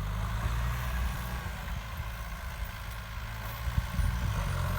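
Kubota M6240SU tractor's diesel engine running steadily under load in second gear while pulling a rotary tiller through wet paddy soil. It is lugging at low revs and close to stalling.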